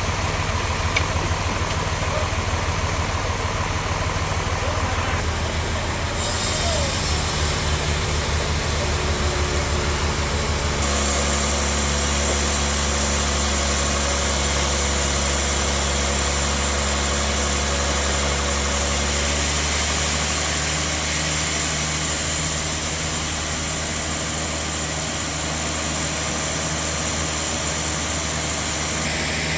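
Sawmill bandsaw machinery running with a steady engine drone. A high hiss joins about six seconds in and strengthens about eleven seconds in, typical of the band blade cutting through the log.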